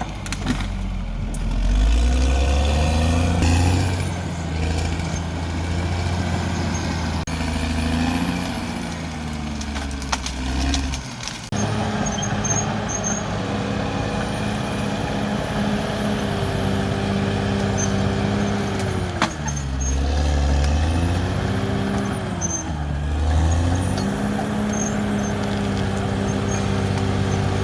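Caterpillar D6R XL bulldozer's diesel engine running under load, its pitch changing as the machine works. About two-thirds of the way in it lugs down and recovers twice in quick succession. The sound changes abruptly about 11 seconds in.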